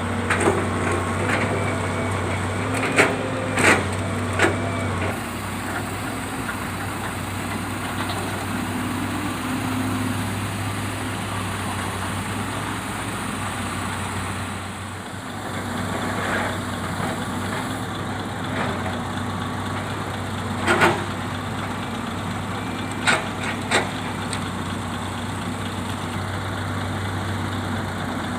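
Heavy diesel engine running steadily while rubberwood logs are loaded, with sharp wooden knocks as logs land: three a few seconds in, and three more near the end.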